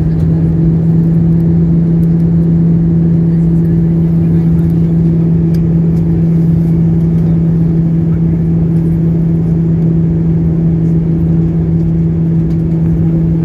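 Steady drone inside an airliner's cabin in flight: jet engine and airflow noise with a constant low hum.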